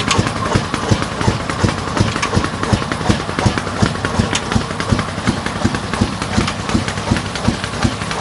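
Old 25 HP black diesel engine running steadily with an even, repeating low knock of its firing strokes, driving a tube well pump.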